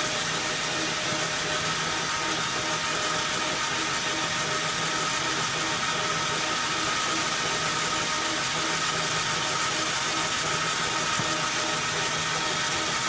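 Metal lathe running steadily, its motor and gearing giving a constant whine over a hiss. A boring bar is taking a light skim pass in a worn pulley bore and barely touches the metal.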